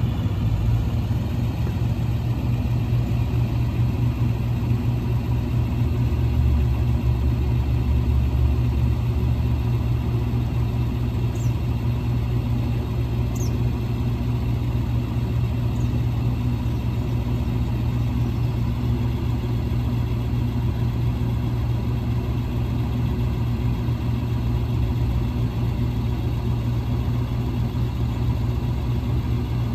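A 1999 International 4700 truck's 7.3L V8 International diesel idling steadily, with a deep even hum.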